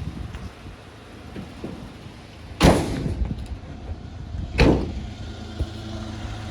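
Two van doors slammed shut about two seconds apart, over the steady idle of the Fiat Ducato's 2.3 MultiJet diesel engine.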